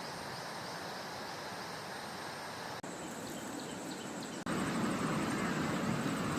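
Forest ambience: a steady rushing hiss with faint, high insect and bird calls over it. About four seconds in it cuts to a louder, deeper rush.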